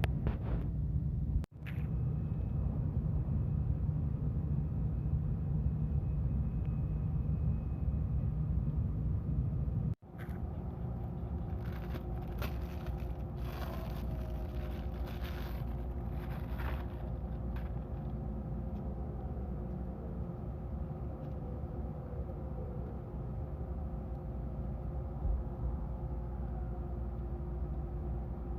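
Steady low rumble of a vehicle in motion, with a faint steady hum over it. It breaks off sharply twice, about a second and a half in and again about ten seconds in.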